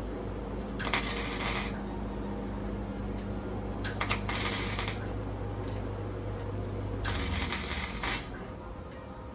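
Welding on sheet-metal floor panels: three short bursts of crackling arc, each under a second, about one, four and a half, and seven seconds in. A steady hum runs underneath.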